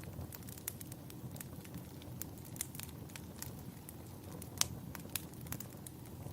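Wood fire in a fireplace crackling, with frequent sharp pops over a low steady rumble of the flames; one pop a little past halfway is louder than the rest.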